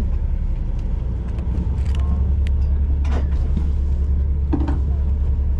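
Fishing boat's engine running with a steady low drone, with a few faint clicks and knocks from gear on deck.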